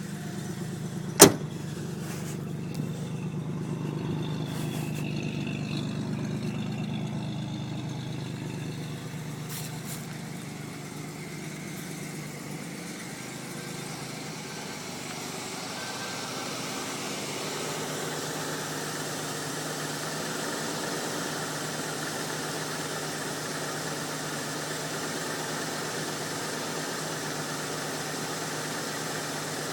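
1981 Buick Electra 225's 4.1-litre carbureted V6 idling steadily, with a single sharp knock about a second in and a few faint clicks.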